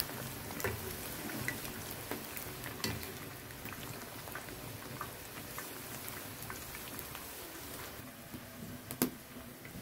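Food frying in oil: a steady crackling sizzle with many small pops, and one sharper click about nine seconds in.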